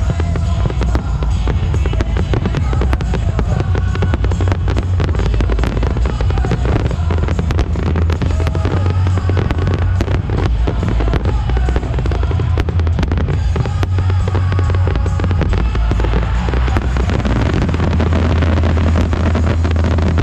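A fireworks display, with rapid bangs and crackling going on continuously, over loud music with a steady low bass.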